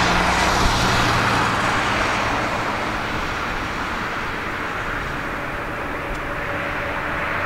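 Jet airliner on landing approach, its engine noise loudest at first and then fading gradually, with a low steady hum under it for the first couple of seconds.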